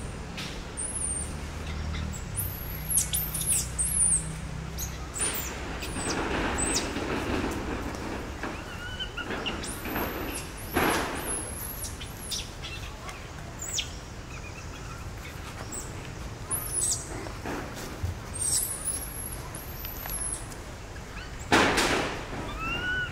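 Birds chirping: quick, very high chirps scattered throughout, with a few short rustling noises. Near the end comes a run of short rising-and-falling calls, about one and a half a second.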